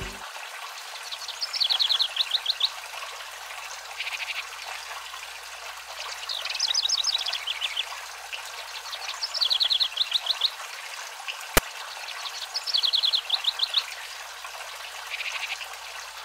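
A songbird repeats a short, fast trill of high notes every two to three seconds over a steady hiss of running water. A single sharp click comes about two-thirds of the way through.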